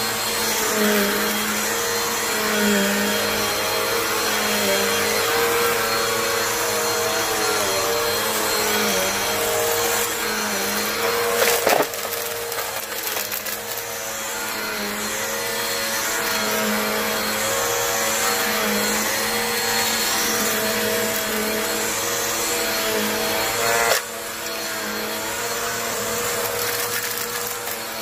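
Vacuum cleaner running steadily while picking up dusty debris and coins, its motor pitch wavering up and down. There are sharp knocks about twelve seconds in and again near the end.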